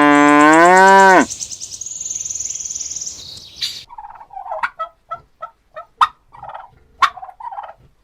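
A long bleat that ends about a second in, then farm poultry calling: a high wavering trill, followed by a string of short, quick calls with a few sharp clicks among them.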